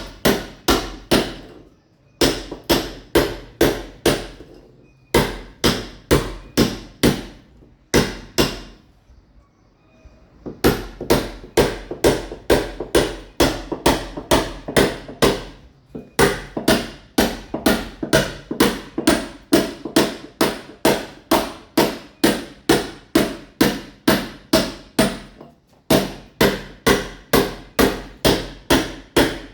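Mason's hammer blows chipping a masonry wall to roughen it for ceramic tile, struck in steady runs of about three to four blows a second. The runs break off with short pauses, the longest about two seconds, a third of the way in.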